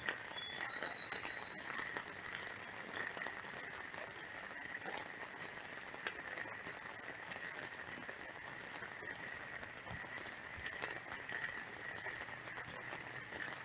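Heavy rain falling steadily, an even wash of sound dotted with many separate drop hits.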